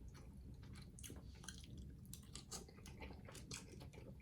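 Faint, close-up chewing: soft wet mouth clicks and smacks scattered irregularly as food is eaten.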